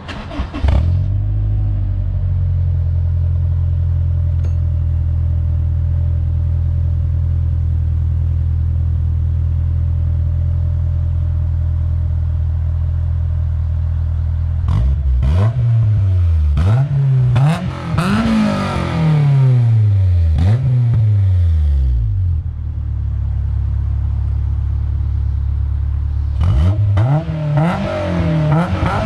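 Honda S2000's four-cylinder engine through a J's Racing 60RS dual titanium exhaust, starting up and settling to a steady idle. About halfway through it is blipped through a series of quick revs, idles again, then is revved again near the end.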